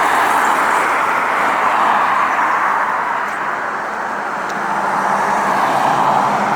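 Road traffic noise: the steady hiss of passing cars' tyres, easing slightly about four seconds in and building again near the end.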